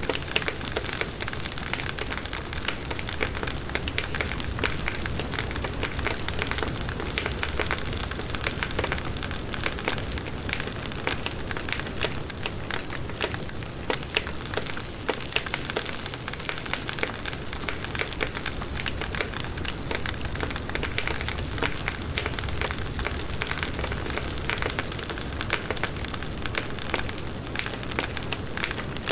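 Firewood burning in a campfire: a steady hiss of flames with many small, irregular crackles and pops from the wood.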